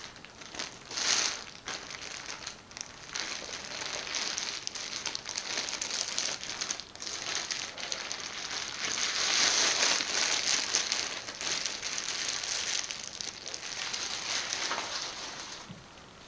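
Plastic seafood-boil bag crinkling and crackling steadily as the food inside is handled, loudest around ten seconds in.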